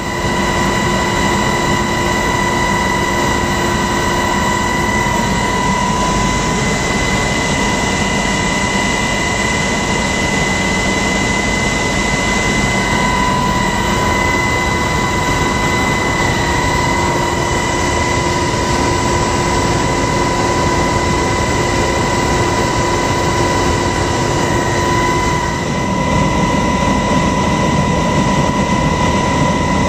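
Helicopter in flight, heard from inside: a loud, steady engine and rotor drone with several steady whining tones over it, shifting slightly about 25 seconds in.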